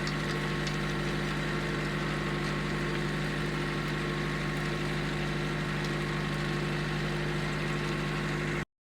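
Engine running steadily at a constant speed while powering a homemade potato harvester, with faint clicks over it; the sound cuts off suddenly near the end.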